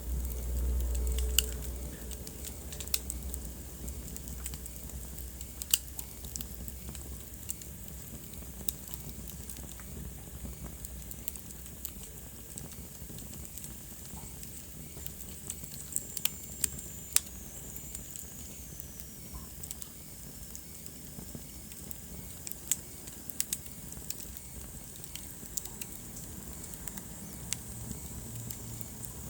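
Wood fire burning in a fireplace: a soft steady hiss broken by irregular sharp crackles and pops. There is a low rumble in the first couple of seconds, and a thin high whistle slides down in pitch about halfway through.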